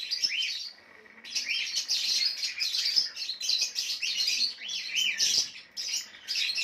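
A flock of small pet birds chirping and tweeting over one another in a busy, continuous chatter of short high calls, with a brief lull about a second in.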